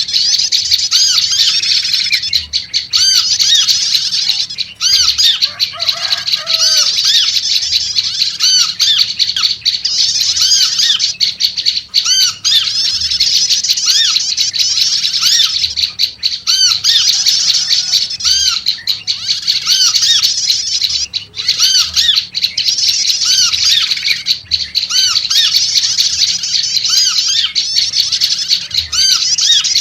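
Olive-backed tailorbird (prenjak lumut) calling in agitation: a loud, continuous chatter of rapid, sharp, high chirps, with a lower looping note repeated about once a second underneath.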